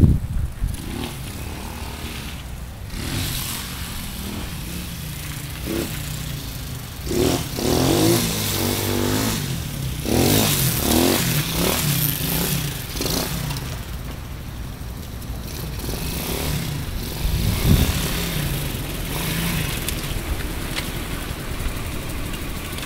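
Gio 125 pit bike's single-cylinder four-stroke engine running while it is ridden, its pitch rising and falling with the throttle, revving harder from about seven to thirteen seconds in.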